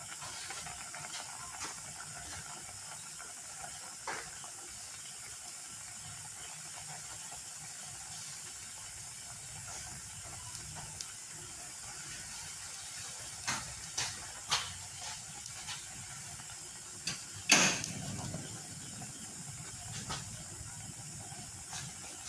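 Pot of chicken in coconut milk simmering with a steady hiss as the sauce cooks down, with a few sharp knocks, the loudest about two-thirds of the way through.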